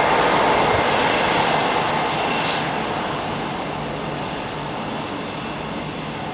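A passing train's wheel and running noise on the line, loud at first and fading steadily as it moves away.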